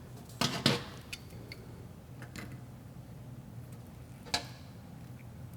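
Light clicks and taps of small fuel pump parts being handled and fitted together: two clicks near the start, a few faint ticks, and one sharper click about four seconds in, over a faint steady hum.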